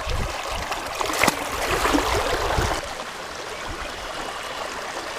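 Creek water running over riffles, a steady rushing hiss that is louder for about the first three seconds, with a brief click just after a second in, then settles to a quieter even flow.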